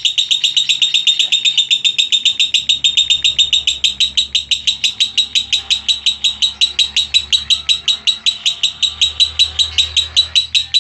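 A bird singing one long unbroken run of rapid, evenly repeated high chirps, about seven a second, a long-duration song timed for length.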